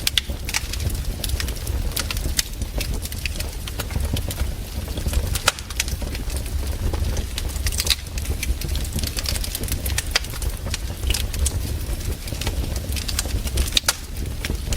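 Campfire of burning wood crackling: irregular sharp pops and snaps, several a second, over a steady low rumble.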